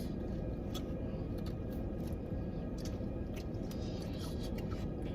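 Faint eating noises, scattered short clicks and smacks of chewing and handling food, over a steady low background rumble.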